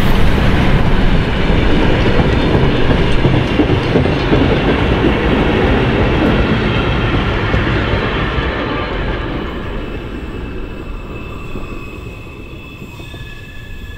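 Train of vintage passenger carriages behind steam locomotive 64 518 rolling past on the rails, a loud rumble of wheels on track that fades steadily as the train draws away. A few faint high tones sound near the end.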